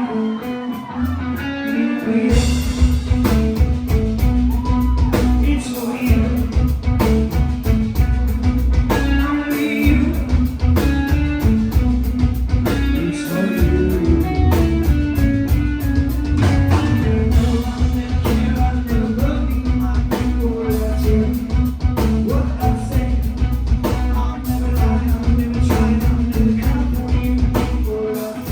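Live rock band playing a song with electric guitar, bass and drums, loud through a club PA. The guitar is heard alone at first, and the full band with drums and bass comes in about two seconds in.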